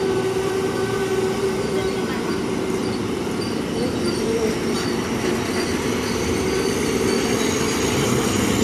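Passenger train coaches rolling past along the platform: a steady rumble of wheels on rail with thin, high squealing tones over it.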